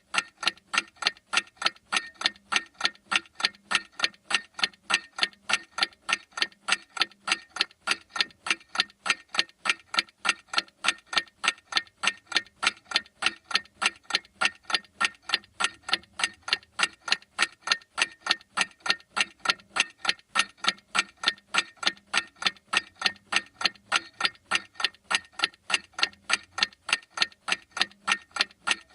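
Clock ticking steadily, sharp even ticks a few times a second without a break.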